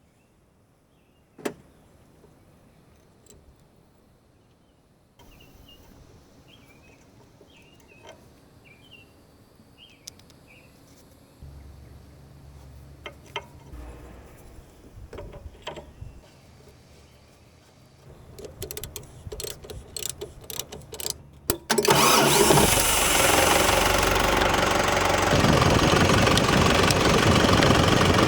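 Mostly quiet work with scattered clicks and taps, then a diesel tractor engine turned over and caught about three-quarters of the way through, running loud from then on. The tractor is a Kubota M105S.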